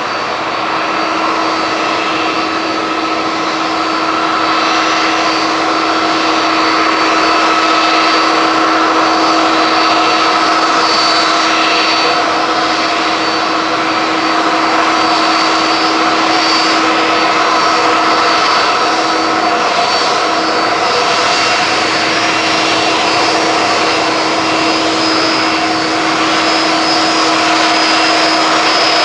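Jet engines of a Malaysia Airlines Airbus A330-200, Pratt & Whitney PW4000-series turbofans, running loud and steady with a rushing roar and several steady whining tones. The sound swells slightly over the first few seconds, then holds.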